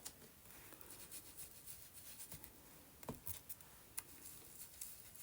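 Faint rubbing with scattered soft taps: a damp napkin dabbing and rubbing ink through a paper stencil onto an old book page.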